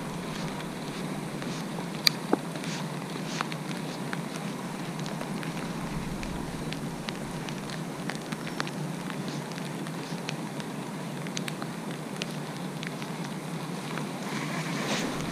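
Rain falling in a steady hiss, with scattered sharp ticks of drops and a couple of louder clicks about two seconds in.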